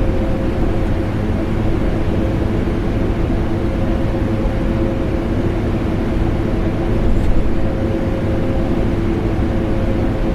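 Vacuum cleaner motor running steadily, mixed with air-conditioner noise: a deep, even drone with a steady hum. A faint tick sounds once about seven seconds in.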